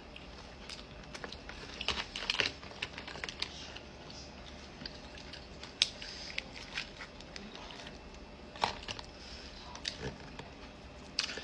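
Lobster shell being cracked and picked apart by hand, giving a string of irregular crisp clicks and crackles.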